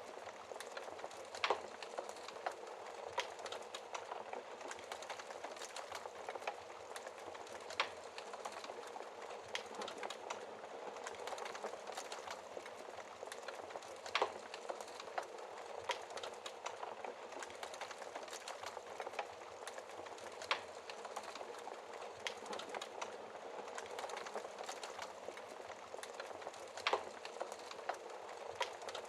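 Wood fire crackling: a steady hiss of burning logs with frequent small irregular crackles and a louder pop every few seconds.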